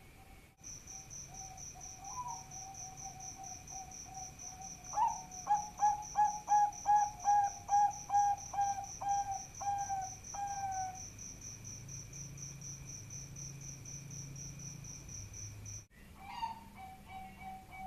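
Zebra dove (perkutut) cooing in low tones, breaking into a series of about a dozen loud, evenly spaced rolling notes from about five seconds in. A steady high pulsing chirp runs underneath, and the sound cuts out abruptly for a moment near the start and near the end.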